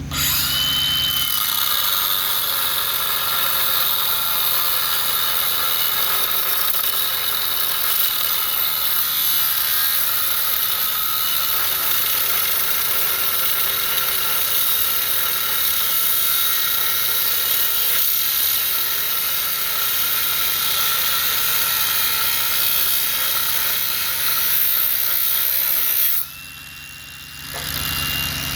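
Power tool cutting metal: a long, steady, high grinding cut. About 26 s in the cutting sound drops away, leaving only the high whine of the spinning tool, then the cutting starts again.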